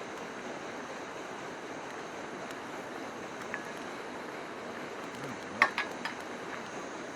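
Steady rush of a river running close by. A few short, sharp clicks sound over it about three and a half seconds in and again around five and a half to six seconds in, the loudest near five and a half.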